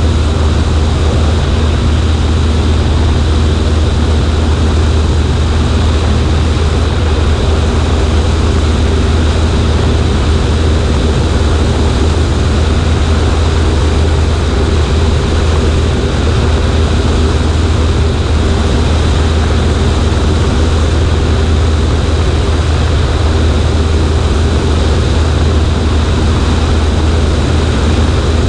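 Cessna 140A's single piston engine and propeller running steadily, heard from the wing with rushing air noise over a deep, even drone.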